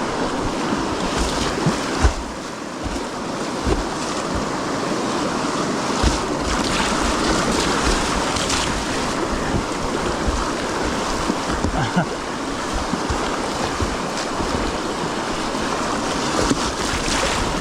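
Rushing whitewater of the Nantahala River heard from a kayak, a steady roar of moving water with a few short thumps and splashes.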